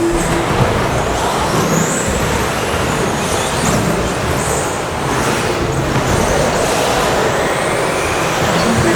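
Several electric RC stadium trucks with 13.5-turn brushless motors racing together: high motor whines rising and falling as the trucks accelerate and brake, over a steady haze of tyre and drivetrain noise.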